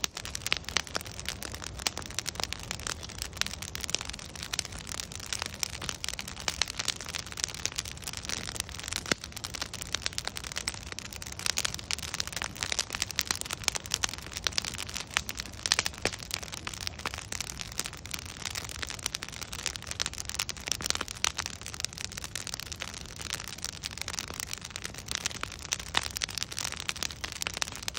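Wood bonfire burning steadily, logs crackling and popping in a dense run of sharp snaps over a soft rushing hiss.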